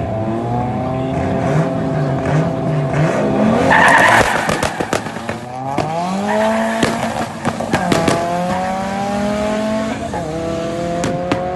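Drag race car engine accelerating hard through the gears, its pitch climbing and then dropping at each upshift about every two seconds. There is a loud burst of noise about four seconds in.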